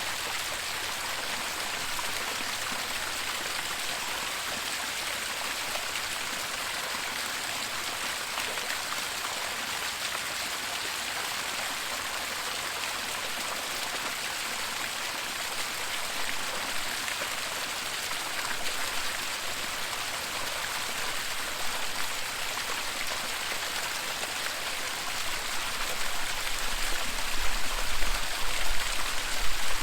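Waterfall water rushing and splashing in a steady, even hiss. Near the end a deep low rumble comes in and the level starts to jump unevenly.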